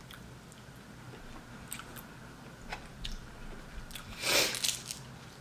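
Mouth noises of a person chewing food, with faint clicks and a short, louder rush of noise about four seconds in.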